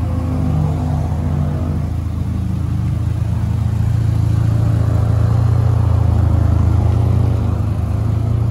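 Audi TT with an aftermarket air intake, its engine running at low revs as the car pulls away slowly. A steady low drone that grows louder as the car rolls past.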